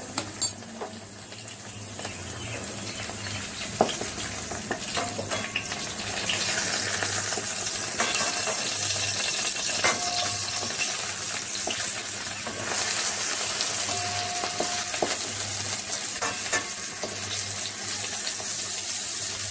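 Cabbage wedges sizzling in hot ghee in a metal kadai, with a few sharp clicks and scrapes of a spatula against the pan as the pieces are lifted and turned.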